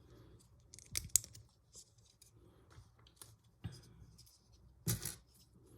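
Plastic Lego pieces being handled and pressed together: scattered small clicks and rustling, with sharper clicks about a second in and again near the end.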